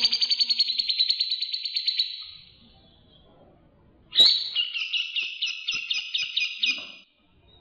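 Songbird calls from a bird-tutor recording: a fast rattling trill of about two and a half seconds, then after a pause of about a second and a half a second, slower pulsed chattering phrase of about three seconds.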